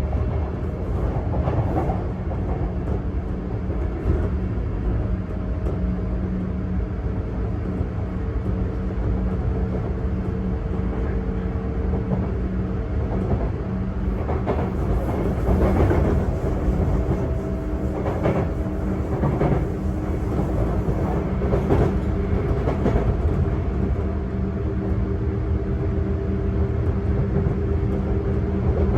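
Sotetsu 8000 series electric train (equipment-renewed), heard from inside a motor car while running between stations. A steady low rumble of wheels on rail carries several held hum tones, with a run of clacks over rail joints around the middle.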